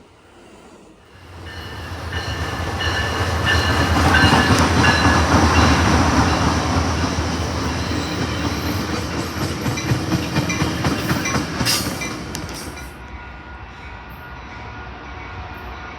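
A train running on the rails, wheels clicking rapidly over the track with some steady high tones above. It rises to a loud peak and then fades, as when a train passes close by.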